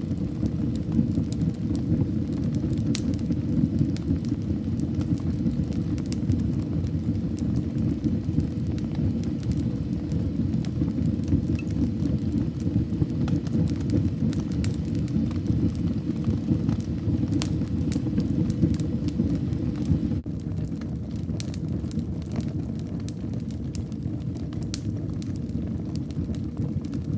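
Wood fire burning in a fireplace: a steady low rumble of flames with frequent sharp crackles and pops, the rumble easing slightly about two-thirds of the way through.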